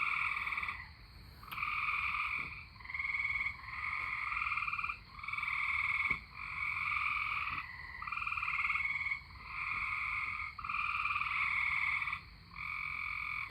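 A chorus of tree frogs trilling: pulsed trills about a second long, one after another with hardly a pause, several frogs overlapping.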